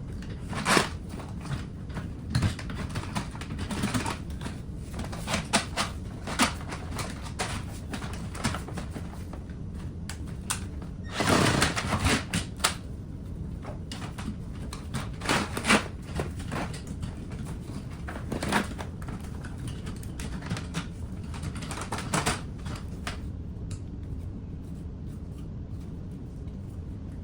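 Irregular sharp clicks and knocks of hand tools and parts being handled during a drain job, over a steady low hum, with a longer clatter about eleven seconds in.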